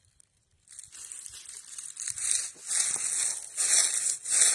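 Footsteps crunching through dry fallen leaves, starting a little under a second in and coming roughly once a second, growing louder.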